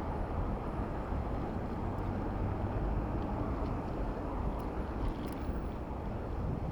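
Steady low rumbling noise of wind and passing traffic from a bicycle riding through city streets.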